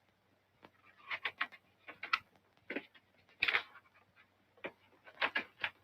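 Paper pages of a catalogue being leafed through: a string of short, crisp rustles in several quick clusters.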